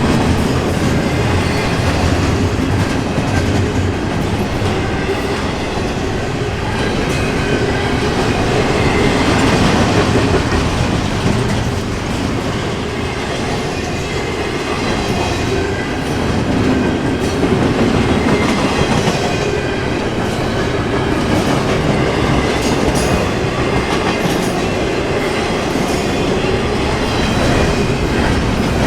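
An intermodal container freight train rolling past at track side: a loud, continuous rumble of steel wheels on rail that swells and eases.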